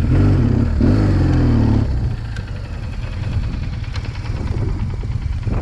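BMW R1200GS boxer-twin motorcycle engine, its pitch rising and falling with the throttle for about the first two seconds as the bike works through loose sand, then settling to a quieter, steadier run.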